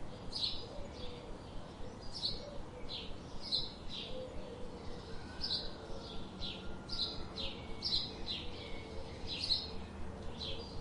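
Songbirds calling with short, high, down-slurred chirps repeated about once a second over faint outdoor background noise.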